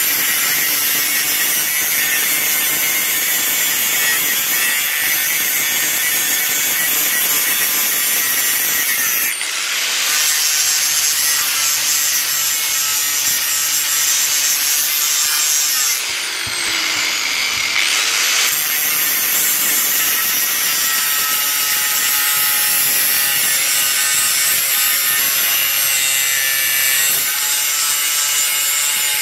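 A power grinder grinding down a fresh weld on a steel exhaust pipe, a loud steady grinding with a high whine. Twice the grinding briefly lets up and the motor's pitch shifts, about a third of the way in and, for a couple of seconds, a little past halfway.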